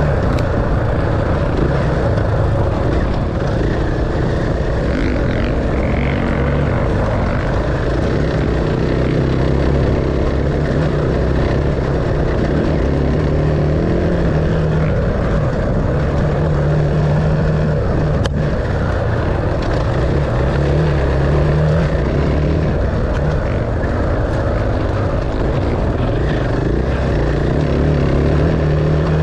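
Dirt bike engine running at a fairly steady speed under way, a constant drone with only small changes in pitch.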